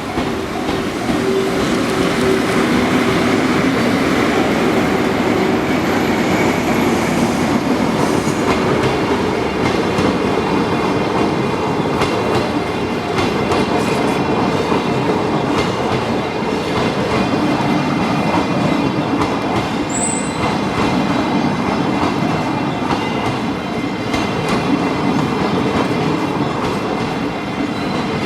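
A locomotive-hauled passenger train, EF81 electric locomotive with the Salon Car Naniwa coaches, running past at close range: loud steady wheel-on-rail noise with a rhythmic clatter over the rail joints.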